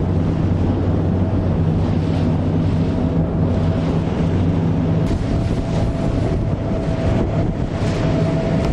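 Boat under way at sea: wind buffeting the microphone and rushing water, over a steady low hum. Sharper gusts of hiss come near the end.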